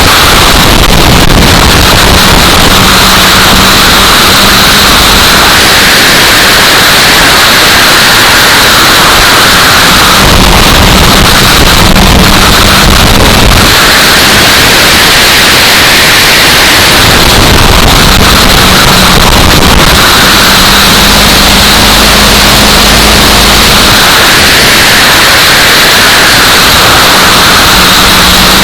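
Heavy wind noise buffeting the microphone and overloading the recording. Stock car engines rise and fade under it every several seconds as the field passes.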